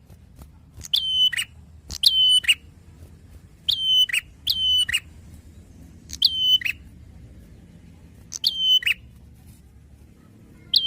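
A prenjak (prinia) calling over and over: loud, short, identical calls, each a sharp high note that drops to a brief held whistle and ends in a quick falling slur, about seven in all and spaced a second or two apart. A faint low hum runs underneath.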